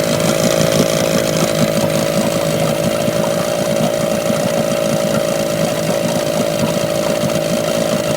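Tohatsu 9.8 hp two-stroke outboard motor running steadily at a constant speed, with a fast, even beat.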